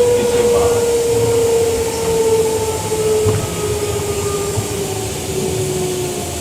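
Queensland Rail EMU electric train heard from on board: a steady whine from the traction motors and gearing, slowly falling in pitch as the train slows, over the low rumble of the train running on the rails.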